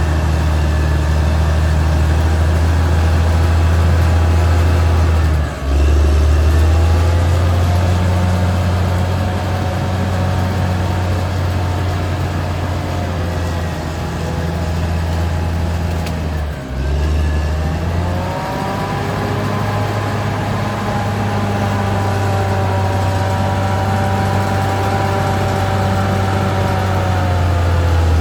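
Caterpillar D6R XL bulldozer's diesel engine running under load with a deep, steady drone. It dips briefly twice, and after each dip a higher whine comes in, holds, and fades away near the end.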